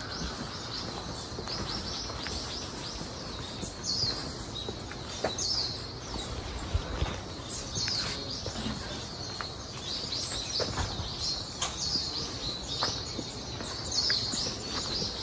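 Small birds chirping: short, high, falling chirps come again and again from several directions over a low steady background hum.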